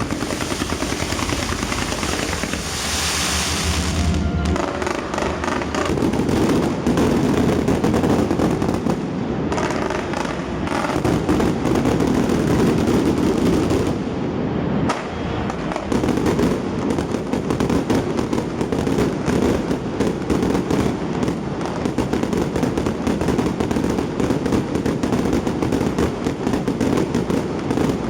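Fireworks going off in a rapid, unbroken barrage of bursts and crackles, with a hissing shower about two to four seconds in.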